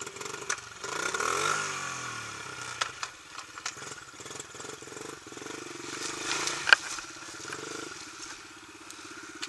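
Dirt bike engine starting up, revving up and down briefly, then settling to a steady idle. A single sharp knock about two-thirds of the way through.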